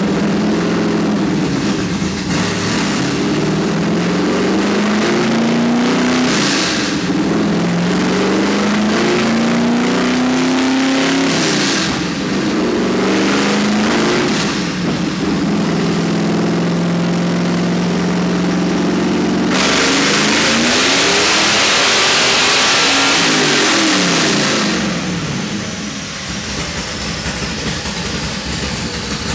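Vengeance-built 440 cubic-inch LSX V8 with a nitrous plate kit running a chassis-dyno pull: the revs climb in several sweeps, then rise steadily, and about twenty seconds in the engine goes to a much louder, harsher full-throttle run for about five seconds. It then lets off, the revs fall away, and a high whine drops in pitch near the end.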